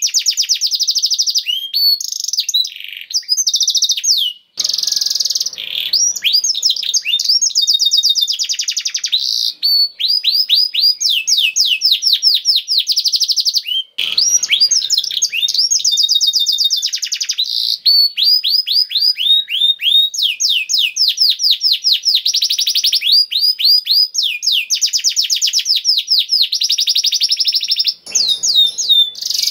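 Male canary singing a long, nearly unbroken song of fast high trills, each phrase a rapid run of repeated notes before switching to the next, with only brief pauses.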